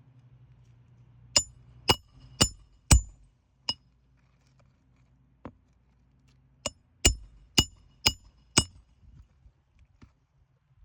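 Hammer blows ringing on metal, as when driving roofing nails into shingles: a run of about five strikes, a lone strike, then another run of about five, roughly two a second.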